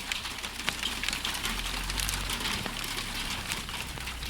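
Hail falling: a dense, rapid ticking of small ice pellets striking surfaces, with a low rumble underneath about a second and a half in.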